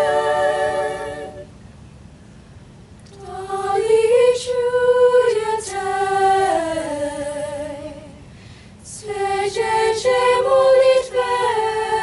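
High school chamber choir singing a cappella in slow, sustained chords. A held chord ends about a second in, then two long phrases follow, each after a short pause.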